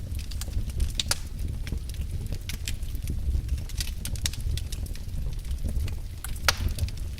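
Fireplace fire crackling: a steady low rumble with irregular sharp pops and crackles, the loudest pop about six and a half seconds in.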